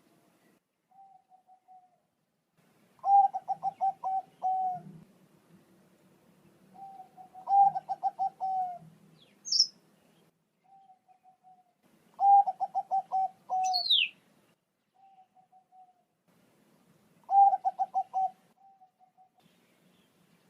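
Zebra dove ('Bangkok' perkutut) singing. It gives four song phrases about every five seconds, each a quick run of coos ending in a longer note, with softer short coos between them.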